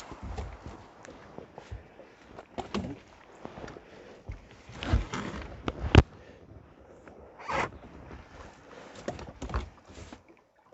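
Irregular rustling, scraping and knocking of a fishing net and its catch being handled by hand, with a sharp knock about six seconds in.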